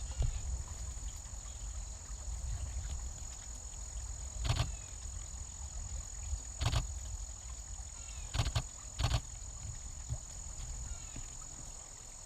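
Outdoor ambience: wind rumbling on the microphone, with a steady high insect trill, a few faint bird chirps and half a dozen short knocks from the camera being handled.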